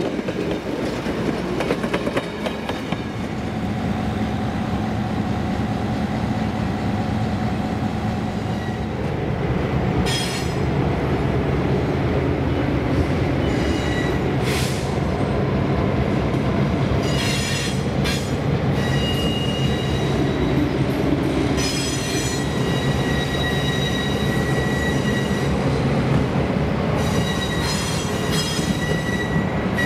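Passenger train rolling past with a steady rumble. From about ten seconds in, its wheels squeal against the rails in repeated high-pitched bursts, some brief and some lasting a few seconds.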